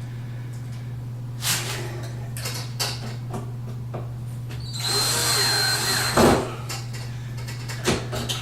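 Power drill driving a screw in one short run of about a second and a half near the middle, ending with a knock, among small clicks and knocks of handling.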